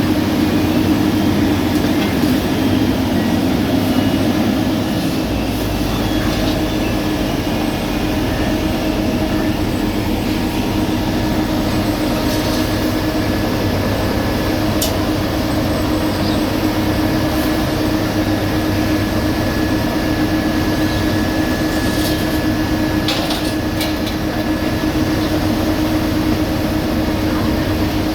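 Heavy road-paving machinery running steadily: a continuous diesel engine drone with a held hum. A deeper rumble joins about five seconds in, and there are a few sharp clicks.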